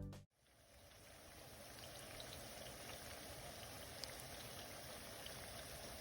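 Background music cuts off abruptly, then the faint, steady rush of a flowing creek fades in, with a few light ticks in the water sound.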